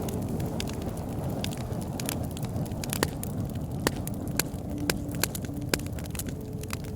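Wood fire crackling: a steady low rush of burning with frequent irregular sharp pops and snaps, a few a second.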